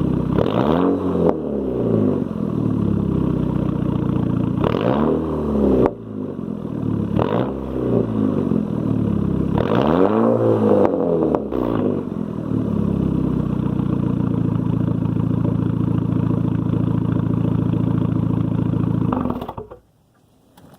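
Volkswagen 2.0 TSI turbocharged four-cylinder with a straight-piped exhaust, blipped about four times, each rev rising and falling back to idle. It then idles steadily and is switched off, cutting out near the end.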